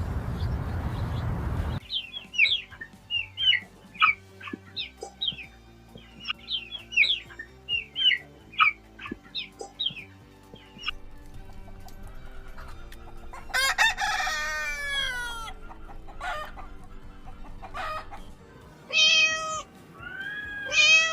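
Bird calls: a quick series of short chirps for several seconds, then a long call falling in pitch about two-thirds of the way through and two shorter calls near the end. The calls are preceded by a steady hiss for the first two seconds.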